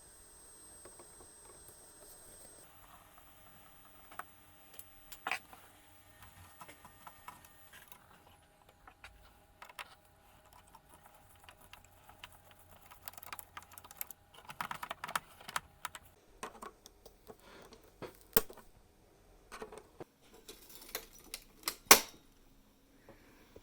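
Irregular clicks, taps and clatter of small parts and tools being handled, with a dense run of clicks in the middle and one sharp loud snap near the end.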